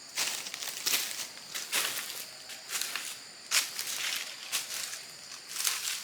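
Repeated rustling strokes, about one a second, over a faint steady high-pitched hum.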